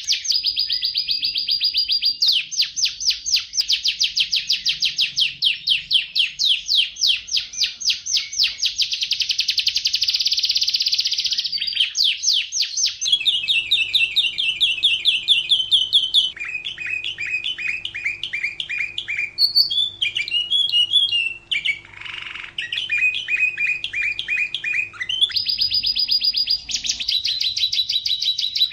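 Domestic canary singing a long, continuous song of rapid trills, each run of one quickly repeated note giving way to another pattern every few seconds.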